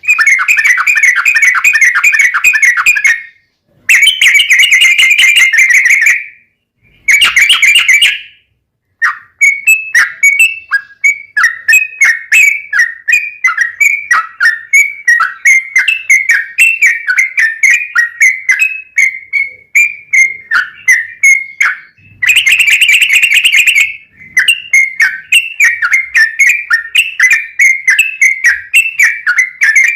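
Sooty-headed bulbul (trucuk) singing a loud, fast song. In the first eight seconds it gives dense chattering trills, each cut off suddenly by a short silence. After that come long runs of quick repeated whistled notes, with another dense trill about three quarters of the way through.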